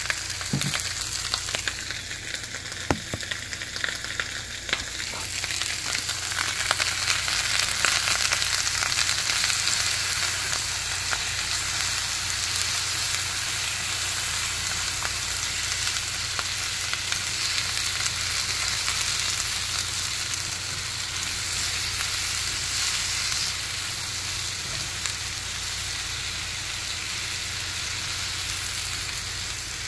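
Sliced onions sizzling in oil in a HexClad hybrid stainless-steel pan, turned over with silicone-tipped tongs. The sizzle swells about six seconds in and then holds steady, with a couple of sharp knocks in the first few seconds.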